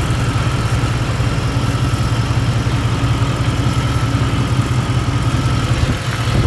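Car engine idling steadily with the air conditioning running after a fresh R134a recharge: a continuous low hum with a faint steady high tone above it.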